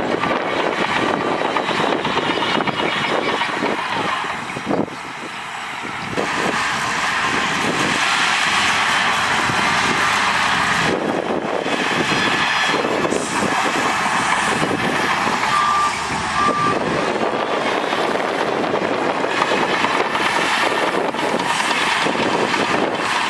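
Heavy diesel earthmoving machinery running and working, a steady loud engine noise, with a reversing alarm beeping twice about two-thirds of the way in.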